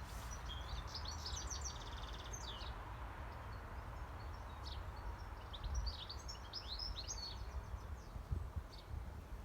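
European goldfinch singing in quick twittering phrases, in two spells: one from about half a second in and another from about five seconds in. Steady low background noise underneath.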